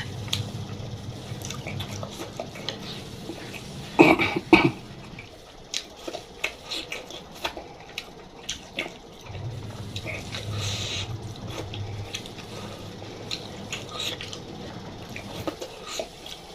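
Close-miked eating: wet chewing and lip-smacking clicks, with a louder burst of mouth sounds about four seconds in.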